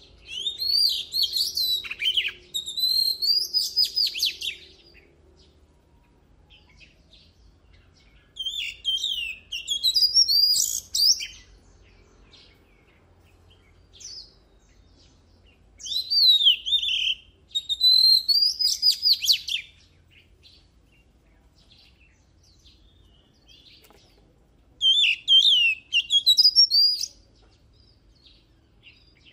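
Oriental magpie-robin singing: four phrases of varied, quickly gliding whistles and rapid trills, each a few seconds long, with pauses of a few seconds between them.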